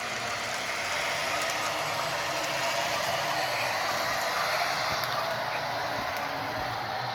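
Brass O gauge Shay model locomotive running in reverse along the track: a steady mechanical running noise of wheels and gearing on the rails, a little louder toward the middle as it comes by.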